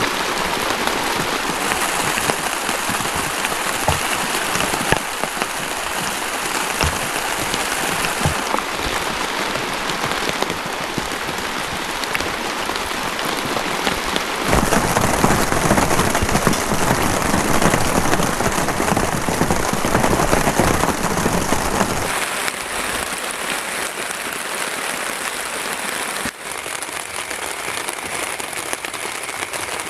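Heavy rain pouring steadily, pattering on a plastic tarp shelter. The downpour gets louder and deeper for several seconds around the middle, with a few sudden shifts in its sound.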